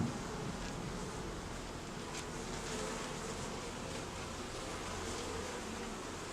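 Many Buckfast honeybees buzzing in an open hive: a steady, even hum.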